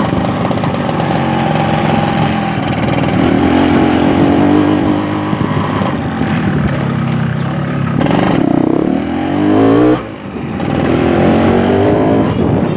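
Yamaha RX-King 135's two-stroke single-cylinder engine running under way, its revs rising and falling. The revs cut back sharply about ten seconds in, then climb again.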